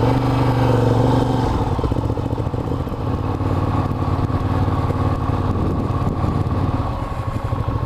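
Ducati Diavel's L-twin engine running at low revs as the motorcycle pulls away and rides slowly, its note rising a little in the first second and then holding steady.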